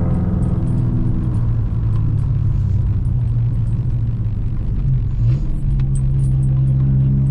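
Volkswagen Golf Mk5 1.4 FSI four-cylinder petrol engine running at low revs on the move. The revs settle low early on, then step up a little just past halfway and hold steady.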